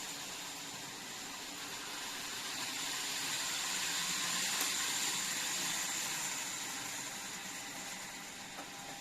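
N-scale model Shinkansen (TOMIX N700S 8000 series) running on its track: a steady high motor whine over the hiss and rumble of small wheels on rail, growing louder to a peak about halfway through and then fading as it passes.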